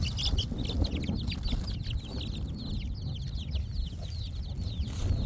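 Birds chirping in a rapid, continuous stream of high, quickly falling notes, several a second, over a steady low rumble.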